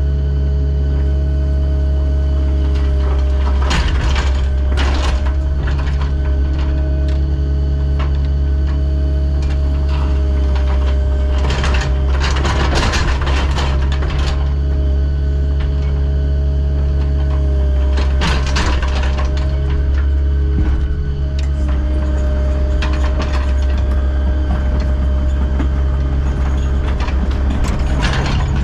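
Diesel engine of a piece of heavy equipment running steadily with a deep hum, with bursts of rattling and clanking several times.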